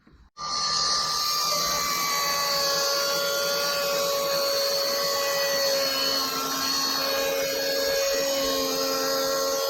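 Electric chainsaw unit of a Logosol E5 speedsaw starting abruptly about half a second in, then running at a steady, even level with a whine made of several steady tones.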